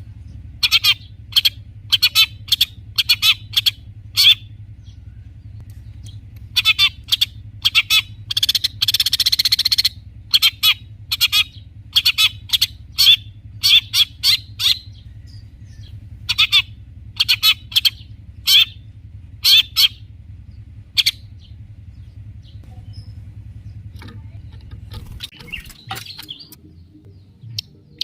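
Long-tailed shrike (cendet) singing: a long series of short, sharp, harsh notes, with a dense run of rapid chatter about nine seconds in and a pause of a few seconds near the end.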